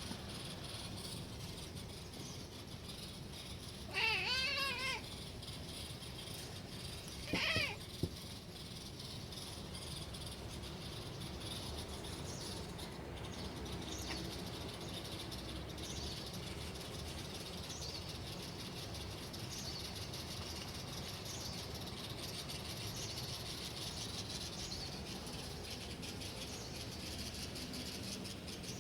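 A cat giving two wavering, chirp-like meows, a longer one about four seconds in and a shorter one about seven seconds in: the bird-imitating chirp a cat makes. Faint high chirps repeat through much of the rest.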